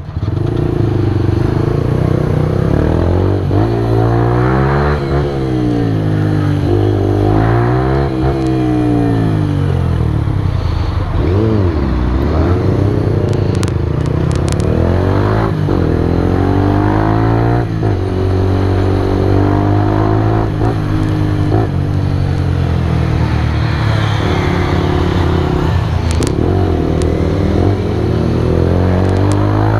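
Keeway RKS 125's single-cylinder four-stroke engine, heard from the rider's seat, pulling away and revving up and easing off again and again, its pitch rising and falling over a few seconds each time.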